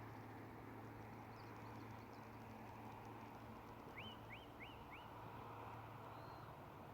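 Faint songbird calls over a steady quiet outdoor background: a quick run of four upswept notes about four seconds in, with a few fainter high chirps before and after.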